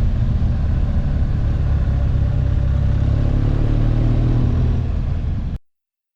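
Motorcycle engine running steadily under way, its note rising slightly partway through. It cuts off suddenly near the end.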